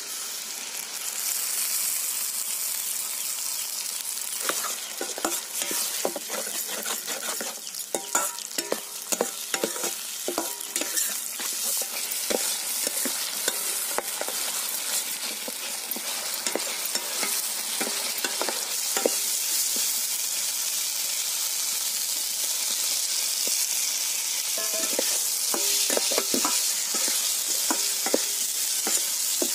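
Onions and ground masala paste sizzling in hot oil in a steel kadai, with a metal spatula stirring and scraping against the pan in frequent short clinks. The sizzle swells about a second in as the wet paste hits the oil.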